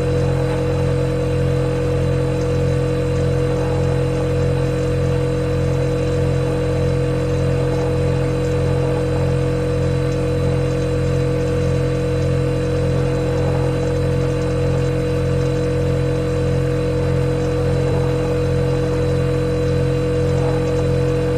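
Refrigerator running with a steady, unchanging hum made of several held tones, the deepest the loudest.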